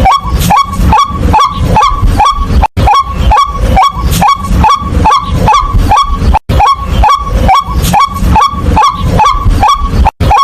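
White-breasted waterhen calling a rapid, monotonous series of short 'kwak' notes, about three a second, with a brief break every few seconds.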